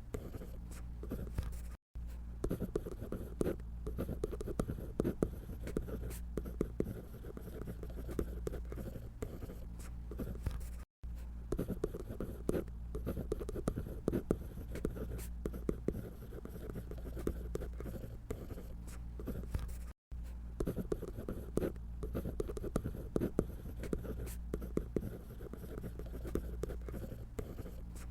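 Drawing on paper: quick, scratchy strokes of a drawing tool, continuous apart from three split-second gaps.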